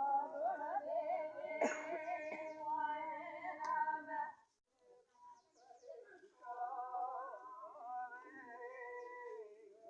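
Devotional singing, a sung prayer asking the goddess for rain, breaking off for about a second midway before the voices start again. A sharp knock sounds once early on.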